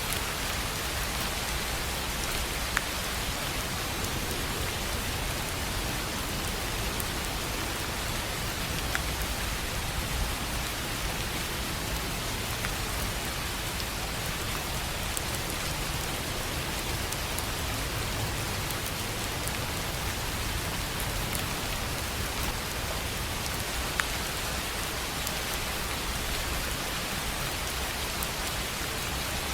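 Steady rain falling on a tin roof, an even patter with a few sharper single drop ticks standing out now and then.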